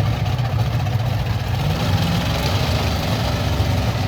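Monster truck engine idling loudly with a steady low rumble, its pitch stepping up a little about a second and a half in.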